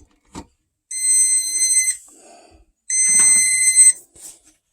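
Electronic alarm beeper sounding a steady high-pitched beep, each about a second long, repeating about every two seconds.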